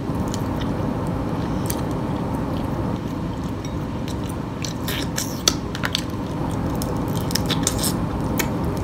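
Close-miked chewing and mouth sounds of someone eating picked blue crab meat. Sharp short clicks and crackles come more often in the second half.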